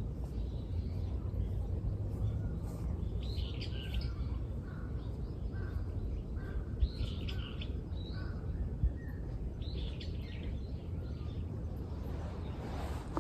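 Wild birds chirping and calling in short scattered phrases over a steady low background rumble, with two brief clicks about seven and nine seconds in.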